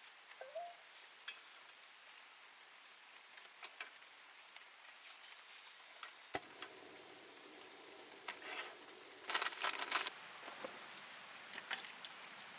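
Rain falling steadily, with scattered drops tapping on the plastic sheet wrapped over the camera. One sharp tap comes about six seconds in, and a quick cluster of clicks and clatter comes about three-quarters of the way through.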